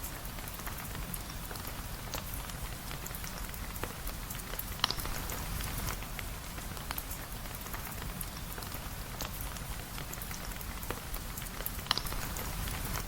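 Steady rain, dense and even, with many scattered small ticks and two louder sharp pops about five and twelve seconds in.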